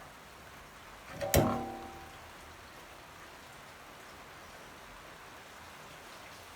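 A single sharp knock about a second in, with a brief metallic ring after it, over a faint steady hiss: a hard object set down or struck on a workbench.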